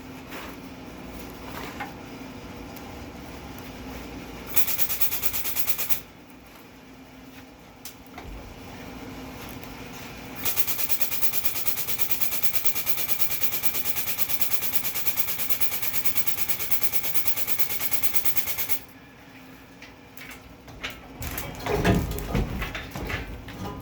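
Impact wrench hammering in two bursts of rapid, even rattling, a short one about five seconds in and a longer one of about eight seconds. Between and after them come scattered clanks and knocks, loudest near the end.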